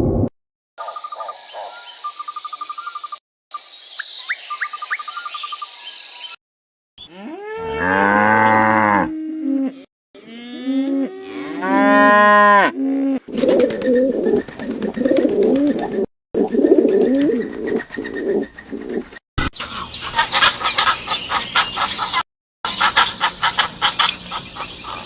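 Short farm-animal clips cut together with brief silent breaks. Bird chirps come first, then two long cow moos, then several seconds of denser, noisier barnyard sound.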